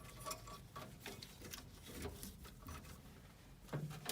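Scattered light clicks and taps from tools and parts being handled, over a faint low hum.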